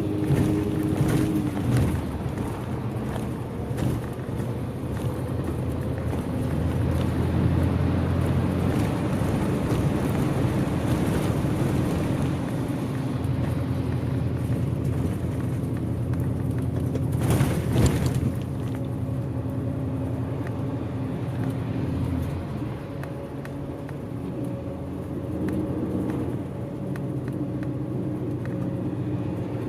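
Bus running on the road, heard from inside the cabin: steady engine and road noise, with the engine tone shifting as it drives. About 17 seconds in there is a brief, louder rush of noise.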